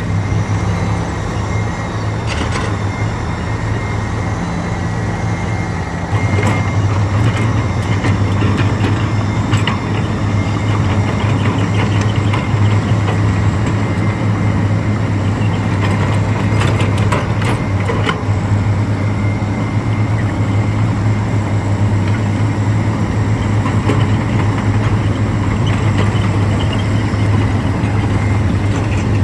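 Heavy diesel engine of a bulldozer working under load, a steady loud drone with scattered clanks and rattles from tracks and stones. The engine gets louder about six seconds in.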